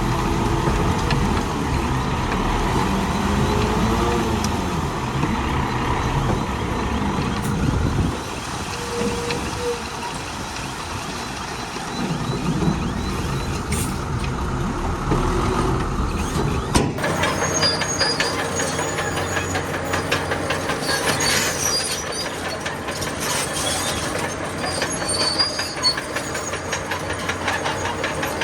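Heavy earthmoving machinery working: diesel engines of a bulldozer and dump trucks running under load. About two thirds of the way in the sound changes abruptly to a fast, even clattering with high-pitched squeals, typical of a tracked machine's steel tracks.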